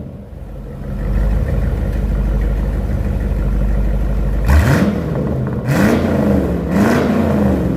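C4 Corvette's V8 idling through a custom variable-valve exhaust, then revved in three quick throttle blips about a second apart, starting a little past halfway through.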